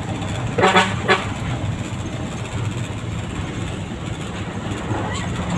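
Fuso 10DC11 tractor head's diesel engine running steadily under way, heard from inside the cab. About a second in there is a short higher-pitched sound.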